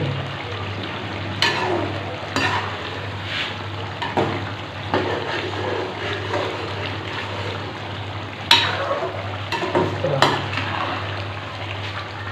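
Chicken karahi sizzling in a wok-shaped karahi over high heat as its water cooks off. A stirring utensil scrapes and knocks against the pan several times in two spells, about a second apart.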